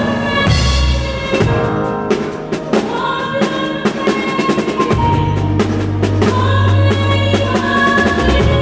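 Worship band music: a drum kit playing a run of quick fills over held melodic notes, with a heavy bass note coming in about five seconds in.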